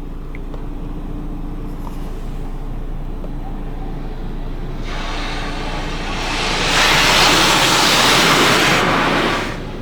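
Washworld High Velocity touchless car wash machinery running with a steady low hum while spraying its clear coat sealant and Rain-X onto a pickup. About five seconds in, a spray hiss builds, is loudest for a couple of seconds, then cuts off just before the end.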